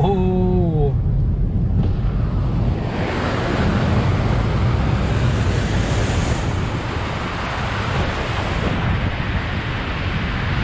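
A car driving through deep standing floodwater on the road: a rushing hiss of splashing water against the car builds up about three seconds in and keeps going, over a steady low rumble. A man lets out an "oh" at the very start.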